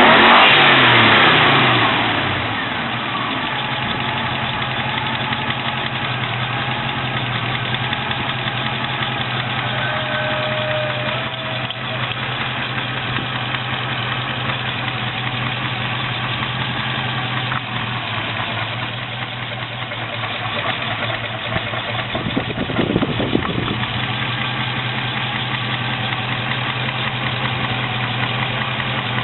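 Triumph Stag V8 engine, warm, settling from a rev to a steady idle, with another short blip of the throttle near the end. A knock is still there but much, much quieter now the engine is warm.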